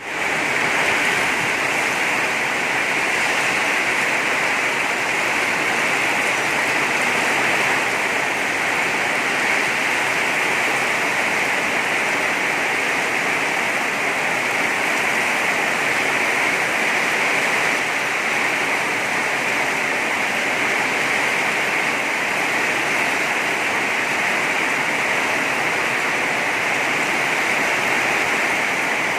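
Heavy rain falling in a steady, even rush, with no let-up.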